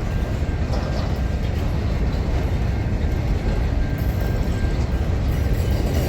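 Long freight train rolling past with a steady low rumble, and a faint steady high tone over it.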